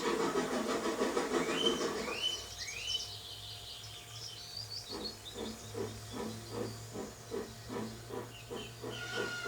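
Steam locomotive sound effect: a few short rising whistle notes about two seconds in, then slow, even chuffing, about three puffs a second, as the engine tries to start a heavy train.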